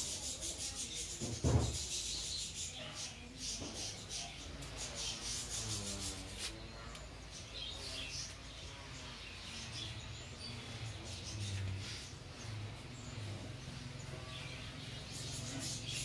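High, rapid chirping and ticking calls of small birds, with soft rustling and one louder knock about one and a half seconds in.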